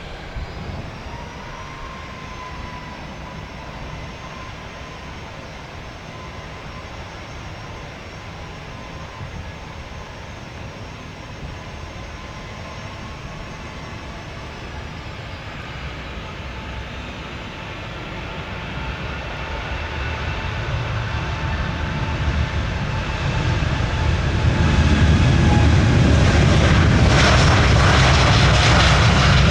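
Jet airliner engines whining steadily over a low rumble, then a much louder jet roar building up over the last ten seconds and holding at full strength near the end.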